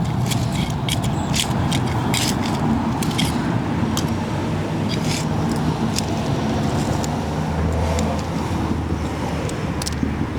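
Steady low rumble of road traffic, with a deeper engine hum swelling about eight seconds in, and scattered small clicks and scrapes throughout.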